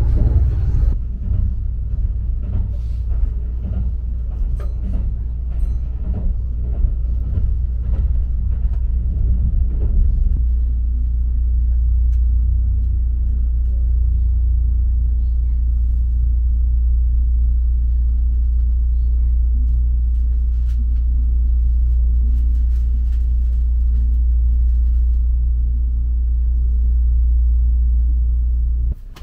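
Steady low rumble inside the cabin of a moving Kintetsu Hinotori express train, with clicks and knocks from the wheels over the track in the first ten seconds, then a smoother run. It cuts off suddenly near the end.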